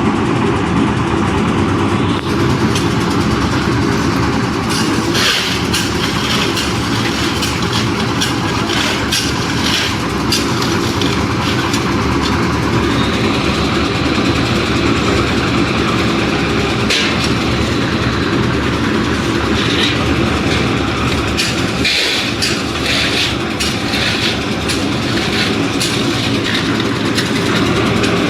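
Concrete mixer running, with a steady engine hum under irregular rattling and clattering of the mix tumbling in the turning drum.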